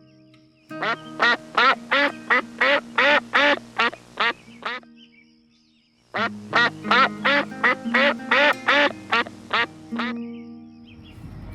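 An animal calling in two rapid runs of about a dozen short calls each, roughly three a second, with a pause between the runs, over background music of sustained notes.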